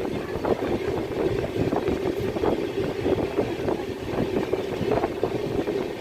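Passenger train running at speed: a steady rumble of wheels on rail, with an irregular clatter and rattle throughout.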